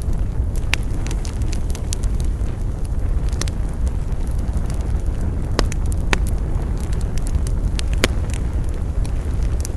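Wood campfire burning, with irregular crackles and pops over a steady low rumble; a few sharper pops stand out about a second in, around six seconds in and near eight seconds.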